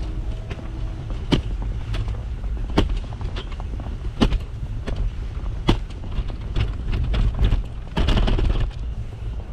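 Crunching footsteps in snow, with sharp crunches about every second and a half, over a steady low wind rumble on the microphone; a longer rushing scrape comes about eight seconds in.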